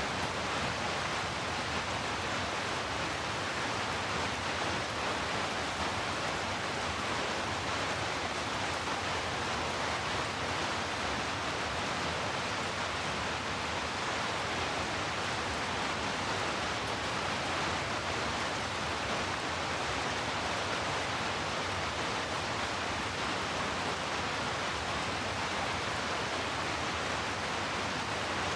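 Heavy rainfall as an ambient noise track: a steady, unbroken hiss with no single drops or thunder standing out.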